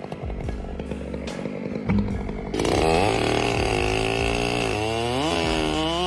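Chainsaw engine running. About two and a half seconds in, the sound changes abruptly to a louder, clearer engine note, and near the end its pitch rises twice as the throttle is opened.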